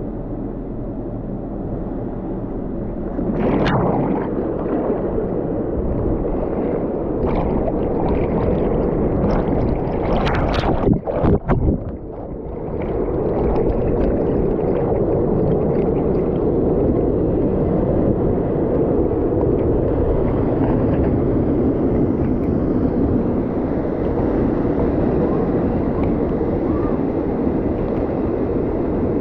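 Rushing water of a river waterfall, a loud steady noise, with a few short splashes and a brief break about eleven seconds in.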